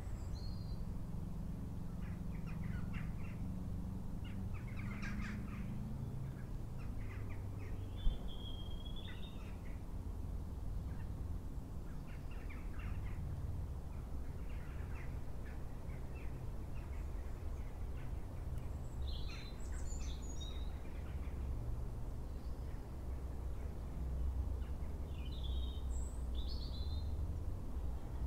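Wild birds calling and chirping on and off over a steady low rumble, with a single sharp click about eight seconds in.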